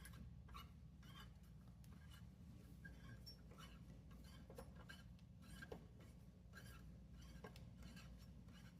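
Near silence with a low hum and faint, irregular clicks and rubbing from a bolt being turned in by hand with a T-handle wrench.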